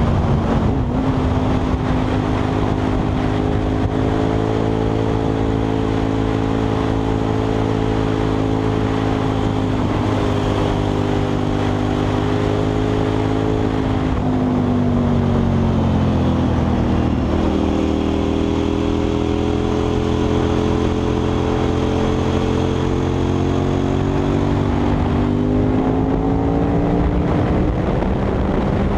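KTM 990 SMR's V-twin engine with a Leo Vince exhaust, heard onboard while riding hard, with wind rushing over the microphone. The engine note holds fairly steady, drops as the bike slows about halfway through, then climbs steadily under acceleration.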